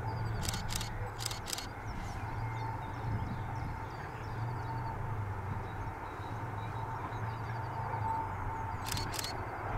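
Small birds chirping repeatedly over a steady low hum. A few short, sharp clicks come in pairs, about half a second in, around a second and a half, and near the end.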